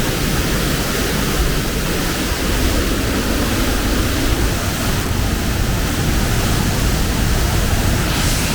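Waterfall: falling water rushing in a loud, steady, unbroken noise.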